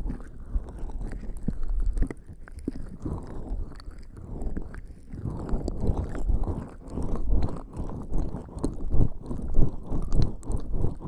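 Skin slick with lubricating jelly rubbing and squelching against the microphone close up, an uneven wet, sticky texture with many irregular small clicks and smacks.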